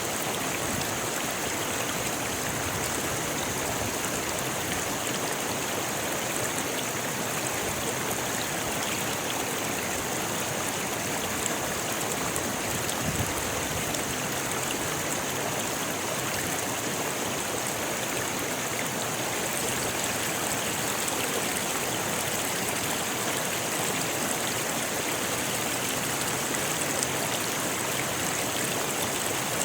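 A rocky river flowing, a steady, even rush of water over stones.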